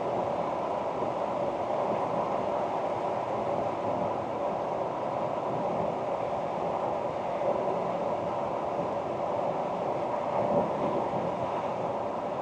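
Ford Ranger Wildtrak pickup driving at a steady pace: a continuous drone of engine and road noise, with no revving or gear changes.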